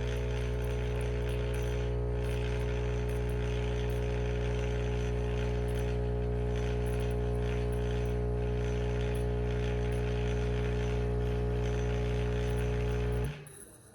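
SCISHARE capsule coffee machine's pump buzzing steadily as it brews, with a hiss over the hum, stopping suddenly about 13 seconds in.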